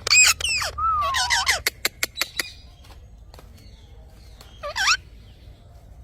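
Parrot squawking: a burst of harsh calls that glide in pitch, one a falling whistle, followed by a quick string of sharp clicks, then a single rising squawk near the end.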